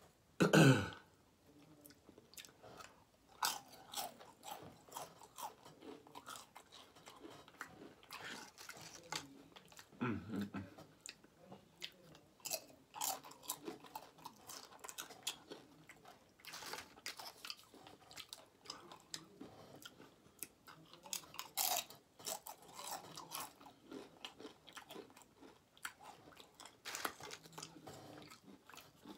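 Close-up chewing and crisp crunching of tortilla chips and a cheesy burrito, many short crunches throughout. A brief falling vocal hum just after the start, the loudest moment, and another about ten seconds in.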